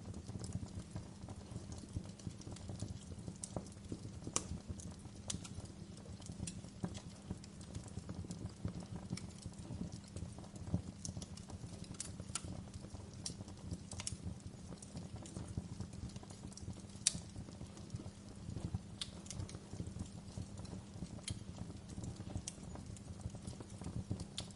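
Fire burning with a steady low rumble of flames and irregular sharp crackles and pops, one louder pop about two-thirds of the way through.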